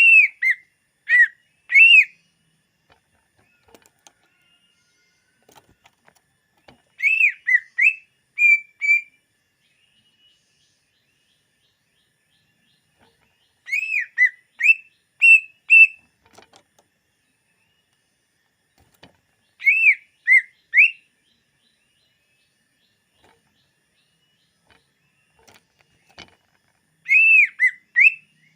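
Green leafbird (cucak ijo) singing: short phrases of clear, looping whistled notes, each phrase about two seconds long, repeated about every six to seven seconds with pauses in between.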